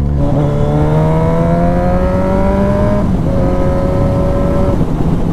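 Suzuki GSX-S1000's inline-four engine pulling under throttle: its note rises steadily for about three seconds, breaks briefly and drops a little as it shifts up, then holds steady before easing off near the end, over low wind rumble.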